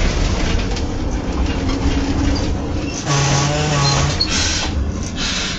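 Narrow-gauge train running along the track, heard from the cab: a loud, steady rumble of wheels on rail and engine. A little past halfway, a low steady tone is heard for about a second.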